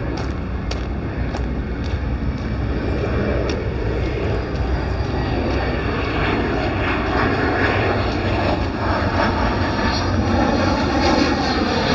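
Airplane flying over on its approach to land, a steady engine rumble that grows louder as it nears.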